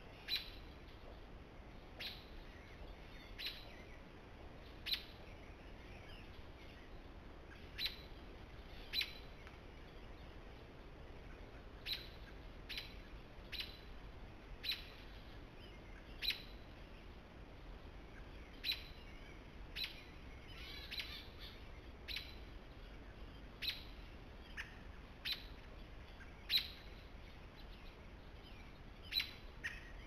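A bird giving short, sharp chip calls, one every one to two seconds, over a faint steady background.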